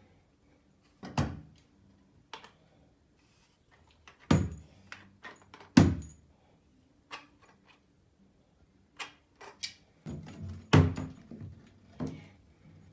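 Shower hose connectors knocking and clinking against the fixtures as the hose is screwed onto the shower head and faucet: about nine irregular knocks, a few of them sharp and loud, with a brief ring after the loudest.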